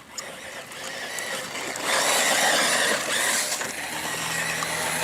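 Electric 1:10 radio-controlled car driving past with its motor and gear drive whining and tyre noise, growing louder and peaking briefly before easing off. A steady low hum starts near the end.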